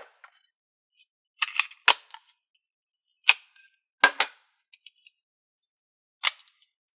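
Thinking putty being squeezed and pulled in the hands, giving several sharp pops and snaps a second or so apart with silence between.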